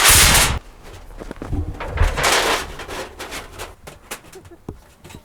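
Snow being scooped with a shovel and thrown against a tent's walls: two loud swishing, crunching throws, one at the start and one about two seconds in, then lighter crunching in the snow.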